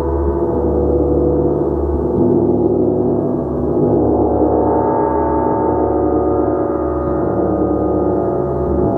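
Gong played continuously, a dense sustained wash of many overlapping tones that swells afresh about two seconds in and again near the middle.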